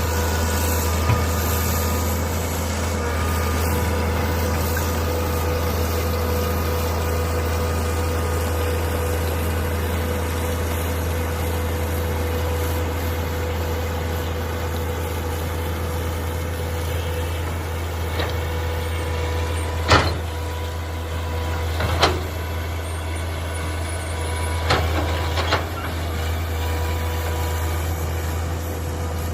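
Mini excavator engine running steadily with a low drone and a steady whine. Several sharp knocks come in the second half.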